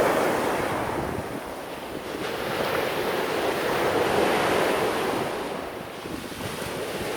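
Sea waves washing onto the shore, with wind buffeting the microphone; the surf swells about two and a half seconds in and eases off near six seconds.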